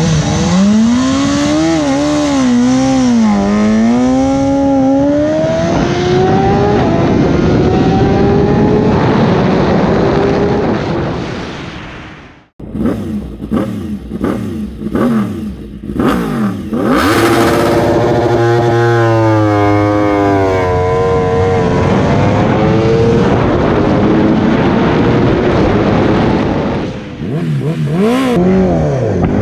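Sport motorcycle engine accelerating hard through the gears, its pitch climbing and then dropping at each upshift. The sound fades and breaks off about twelve seconds in. Then come a few seconds of short throttle blips and knocks, and a second motorcycle run, again rising through several gear changes.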